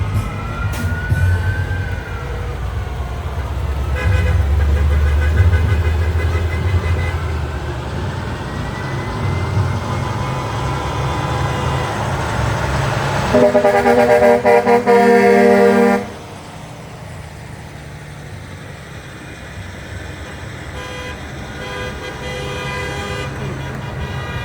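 Fire engines going by: a low diesel engine rumble with a rising and falling siren wail in the first half, then a long air horn blast of about two and a half seconds about halfway through, the loudest sound.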